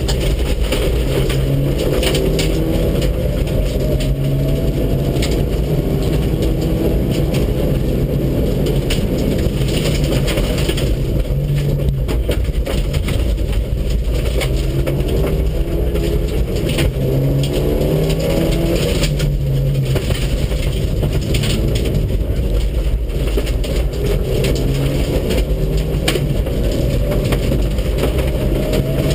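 Mitsubishi Lancer Evolution VII's turbocharged four-cylinder engine accelerating hard on a rally stage. Its pitch climbs and drops back several times as it changes up through the gears, over constant road noise and scattered knocks.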